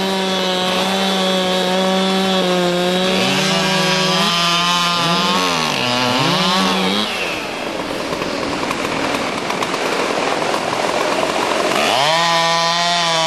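Chainsaw running at high revs with a steady, high engine note. Around the middle its pitch sags and rises several times as it works, then gives way to a few seconds of rough noise without a clear note. Near the end it revs back up to a steady high pitch.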